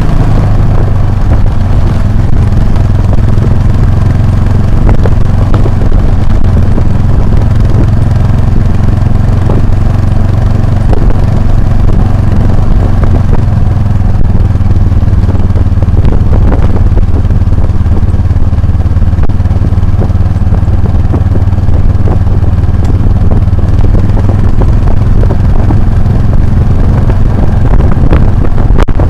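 Motorcycle engine running steadily while riding off road, recorded close up on an action camera, with wind noise and knocks and rattles from the rough ground.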